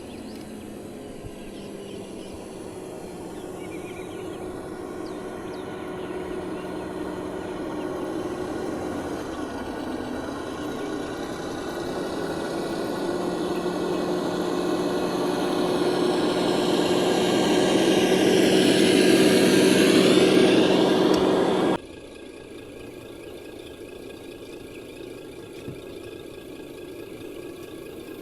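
Small electric motor and gearbox of an RC construction vehicle whining steadily, growing louder as it comes closer, then cutting off suddenly a little over twenty seconds in.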